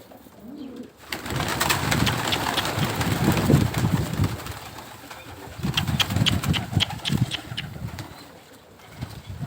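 Wind buffeting the microphone, rising suddenly about a second in and easing near the end, over domestic pigeons cooing.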